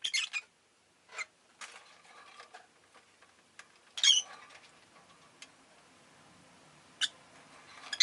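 Peach-faced lovebirds giving short, sharp chirps in scattered bursts: a quick cluster at the start, single chirps about one and two seconds in, a louder burst about four seconds in and another near seven seconds.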